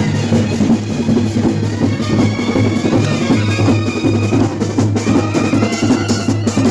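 A percussion ensemble in a procession drumming continuously and loudly, with held instrument tones over the drums.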